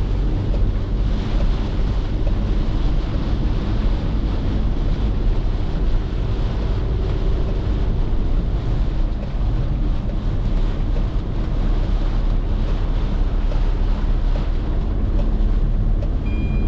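Car driving on a rain-soaked highway: a steady low rumble of engine and tyres, with a constant hiss of rain and water spray. A brief high tone sounds near the end.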